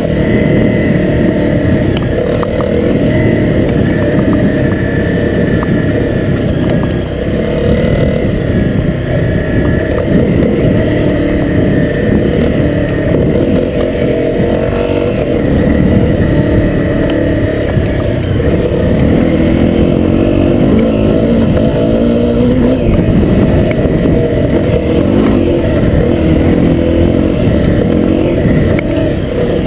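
Honda CRF250L's single-cylinder four-stroke engine running as the dirt bike is ridden along a trail, its note rising and falling with the throttle.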